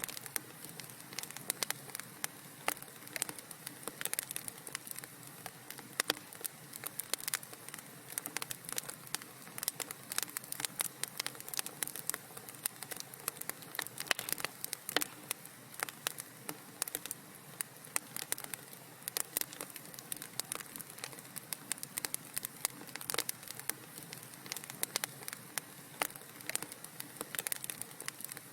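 Fireplace fire crackling: many irregular small pops and snaps over a soft steady hiss.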